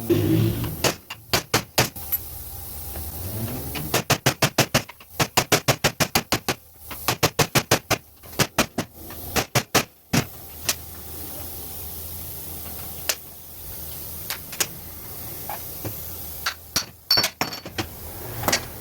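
Hand-tool work on a car: bursts of rapid sharp clicks, several a second, broken by short pauses, with a few single knocks later on.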